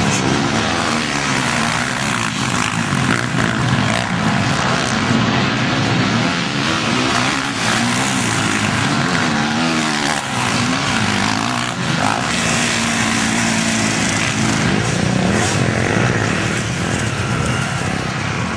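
Several motocross bikes running hard, their engines revving up and down with frequent rises and drops in pitch as they accelerate and change gear.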